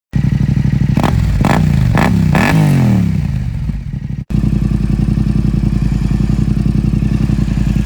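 Motorcycle parallel-twin engine, a Yamaha MT-07 with an aftermarket full exhaust system, idling and blipped four times in quick succession about a second in, each rev rising and falling back to idle. After a brief cut it settles into a steady idle.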